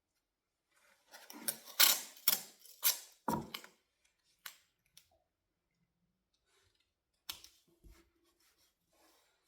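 Scratchy rubbing strokes of furniture wax being worked into wood, five or six quick strokes about two a second, followed by a few light knocks and clicks.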